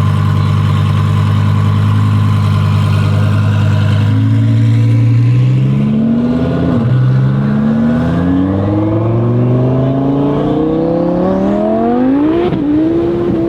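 Twin-turbo Audi R8 V10 Plus engine holding a steady speed, then accelerating hard from about four seconds in. Its revs climb through the gears, with a drop in pitch at each of two gear changes, about halfway through and near the end.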